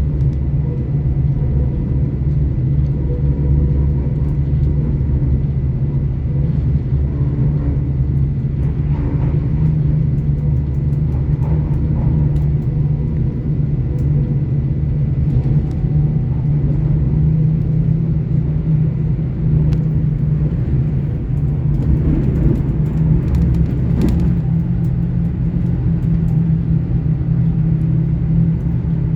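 Steady running noise of a GWR Class 800 IET train, heard from inside a passenger coach: an even low rumble of the train on the track.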